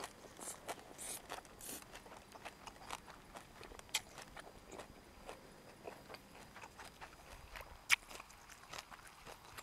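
Close-miked chewing of crunchy boiled pork uterus (sai tan) dipped in seafood chili sauce: a run of small wet crunches and mouth clicks, with one sharper click about eight seconds in.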